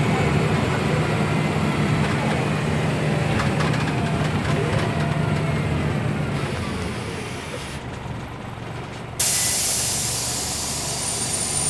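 Scania OmniLink city bus engine running with a steady low hum that fades away after about six seconds. About nine seconds in, a loud compressed-air hiss starts suddenly and keeps going, as from the bus's air brake or pneumatic system venting.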